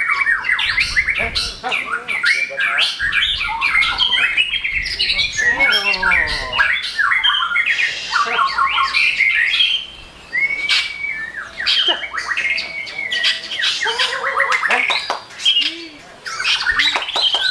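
Several caged songbirds singing over each other: dense rapid chirps, trills and short whistles, with brief lulls twice.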